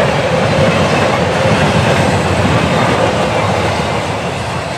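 Double-stack intermodal train's container well cars rolling past, a steady rumble and clatter of steel wheels on rail that eases slightly near the end as the last cars go by.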